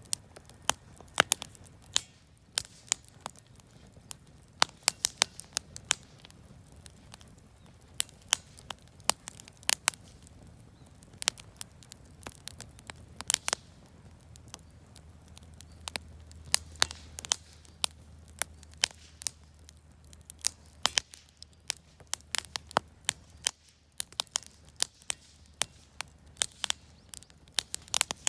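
Campfire of scrap lumber and firewood crackling, with frequent sharp pops at irregular intervals over a low rumble of the flames.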